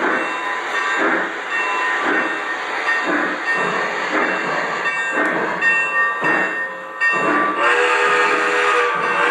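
O-scale model steam locomotive's onboard sound system playing rhythmic chuffing, about two chuffs a second. A whistle chord sounds from a little under eight seconds in.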